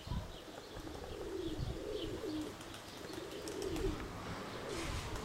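Domestic pigeons cooing repeatedly, with wind rumbling on the microphone.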